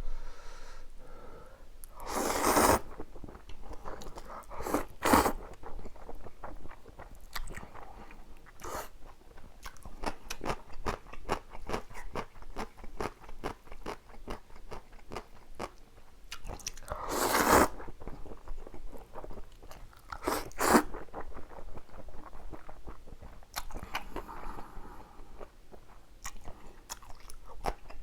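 Close-miked eating of spicy stir-fried instant noodles: steady chewing with wet mouth clicks and smacks, and two louder slurps of noodles, about two seconds in and again past halfway.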